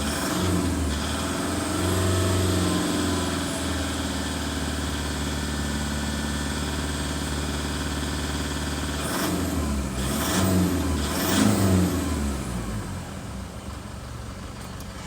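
Toyota Prado 3.0-litre engine idling, revved once about two seconds in and blipped twice about ten seconds in, each time dropping back to a steady idle.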